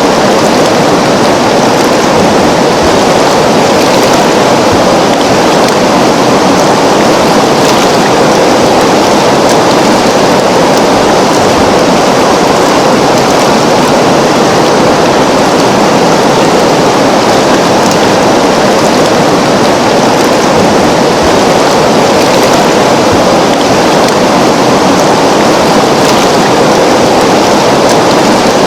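A river flowing steadily, its water rushing in an even, unbroken wash.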